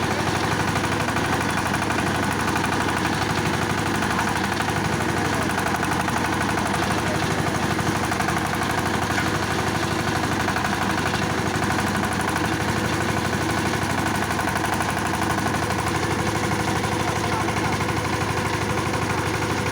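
Kirloskar power tiller's single-cylinder, water-cooled diesel engine running steadily with a fast, even beat of its firing strokes.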